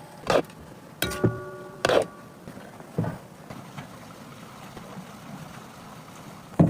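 A string of sharp knocks and clanks, one about a second in ringing on for about a second like struck metal, with a last sharp knock near the end.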